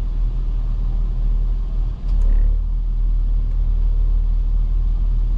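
Car engine idling, heard from inside the cabin as a steady low rumble. About two seconds in the rumble dips briefly, then continues a little louder.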